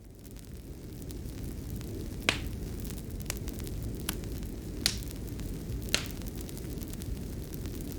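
Fireplace fire crackling: a steady low rumble of burning with several sharp pops. It fades in over the first second.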